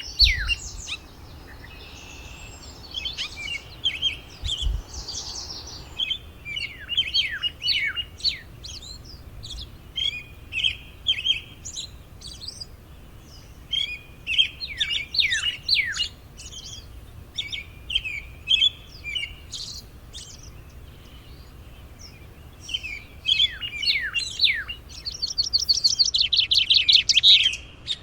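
Small wild birds chirping and calling: short, quick, mostly falling chirps in scattered bursts. Near the end comes a rapid trill of repeated notes, the loudest part.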